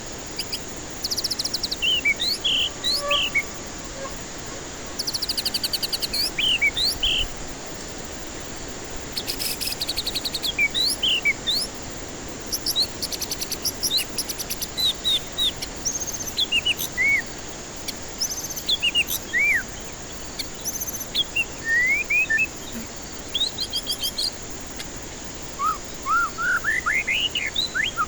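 White-rumped shama (murai batu) singing: bursts of clear rising and falling whistles mixed with fast, stuttering rattles. Short pauses fall between the phrases.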